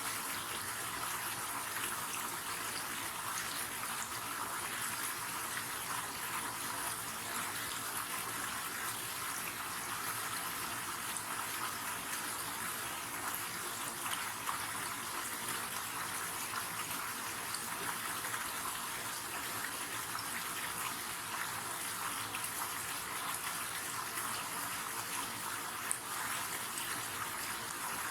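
River water flowing and splashing steadily, a continuous rushing with small splashes throughout.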